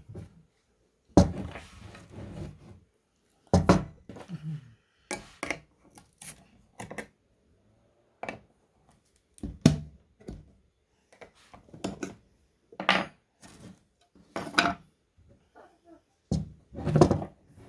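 Metal stain cans and their lids being handled: a series of separate knocks and clanks, spaced a second or two apart.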